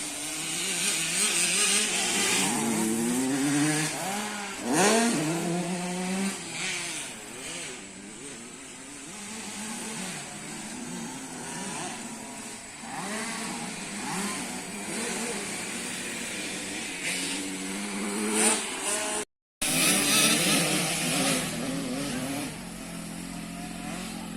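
Motocross dirt bikes revving on a practice track, engine pitch rising and falling again and again as they accelerate and ease off, at times more than one bike at once.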